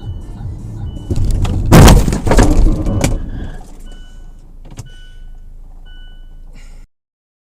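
Car collision picked up by a dashcam: steady road rumble, then a loud crash a second or two in lasting about two seconds, with a couple of sharp knocks after it. An electronic beep then repeats about once a second before the sound cuts off.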